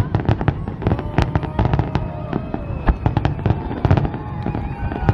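Fireworks display: a rapid, dense barrage of bangs and crackling, several reports a second, with whistling shells gliding in pitch among them.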